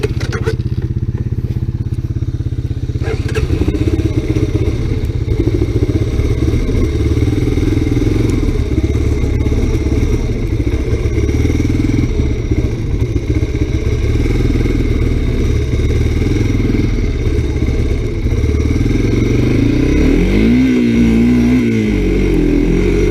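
Honda 250SX three-wheeler's engine running while riding, its pitch wavering with the throttle, with one rev that rises and falls near the end.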